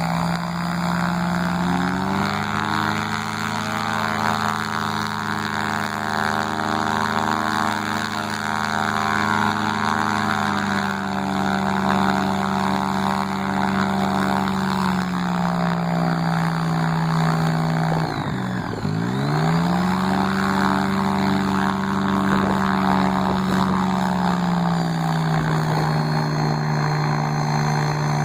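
Propeller engine of a brand-new Schleicher ASG 32 Mi motorglider running on its first ground run, revs rising and falling with the throttle. It pulls up to a higher speed a couple of seconds in, then later dips sharply and quickly recovers about two-thirds of the way through.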